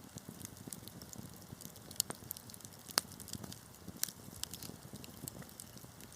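Wood fire crackling, with frequent small snaps and a few sharper pops, the loudest about two and three seconds in, over a low rumble of burning.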